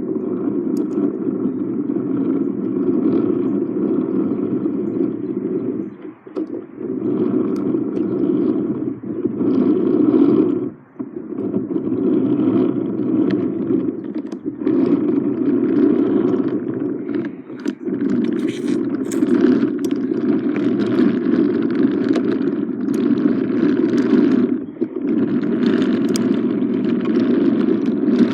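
Small electric motor of a battery-powered toy train running steadily as the train travels along its track, dropping out briefly every few seconds.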